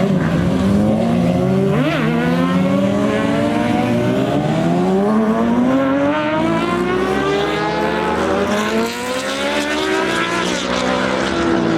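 A car engine accelerating hard, its pitch climbing steadily for several seconds, easing off and climbing again near the end, with a short sharp rev spike about two seconds in.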